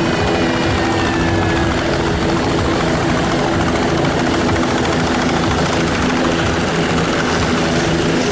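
Helicopter running close by: a steady, loud rotor and engine noise with a constant low hum. A faint high whine falls slowly in pitch over the first two seconds.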